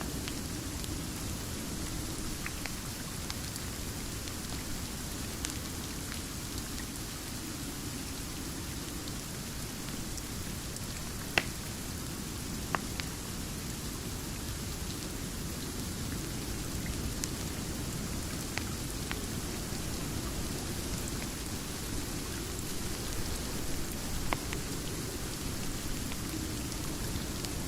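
Steady rain with a low rumble underneath, mixed with a crackling wood fire that gives a few sharp pops, the loudest about eleven seconds in and others near thirteen and twenty-four seconds.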